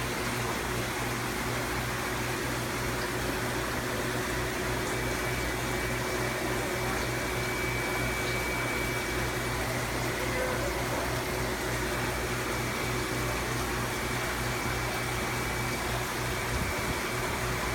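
Aquarium equipment running: a steady hum and hiss with no change throughout, with a faint high tone that comes and goes.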